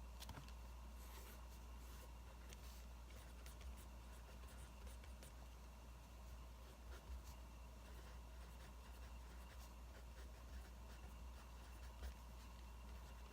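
Faint scratching of writing on paper, in short strokes with pauses, over a steady low hum.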